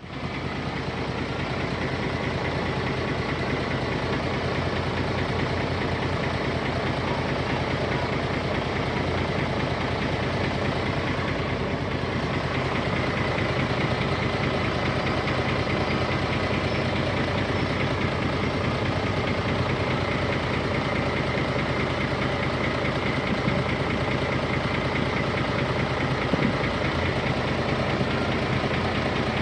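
Diesel engine of heavy earthmoving equipment running steadily, with no revving.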